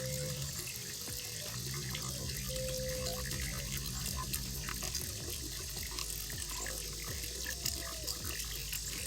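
Koi pond water running and splashing steadily, with small drips and splashes ticking through it.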